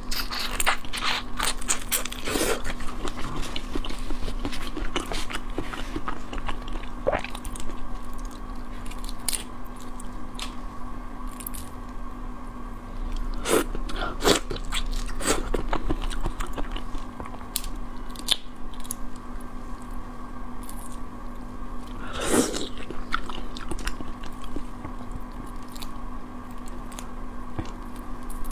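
Close-miked biting and chewing of soy-marinated raw shrimp: irregular wet, crunchy mouth sounds over a faint steady hum.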